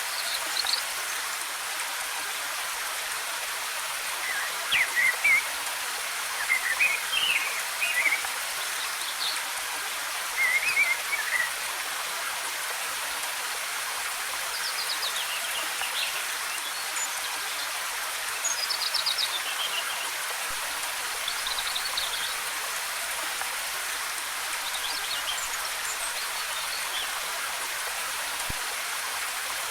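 Steady rush of a waterfall, with forest birds chirping in short phrases every few seconds.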